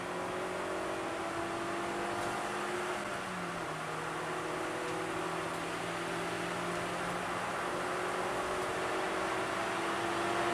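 Suzuki Swift Sport's four-cylinder engine pulling under load, heard from inside the cabin over steady tyre and road noise. Its pitch eases slightly about three seconds in, then climbs slowly and grows a little louder as the car accelerates.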